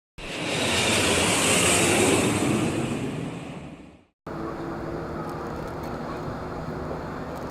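OV-10 Bronco twin-turboprop aircraft: a loud pass that swells to a peak and dies away over about four seconds, then, after a brief break, a steadier engine drone with a low hum.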